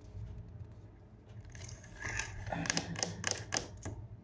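Handling noise: a quick run of clicks and rustling lasting about two seconds, starting about halfway through, over a low steady hum.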